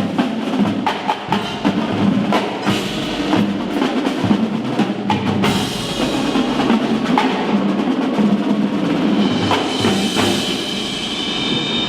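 Marching percussion ensemble playing: many quick, sharp snare and drum strokes, giving way in the second half to held pitched notes over the drums.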